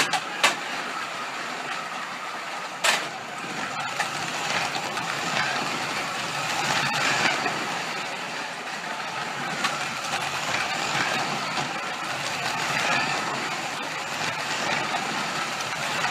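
Scalextric Digital slot-car racing trucks running laps on a plastic track: a steady whirring rush of small electric motors and wheels on the track, with a few sharp clicks near the start and about three seconds in.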